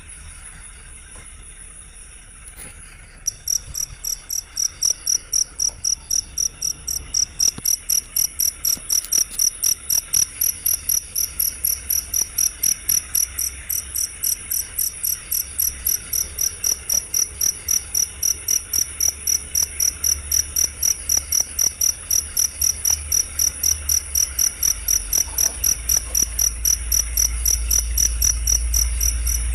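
Cricket chirping in a fast, even train of high-pitched pulses, about three a second, starting a few seconds in and growing louder. Before it, only a fainter steady high insect trill.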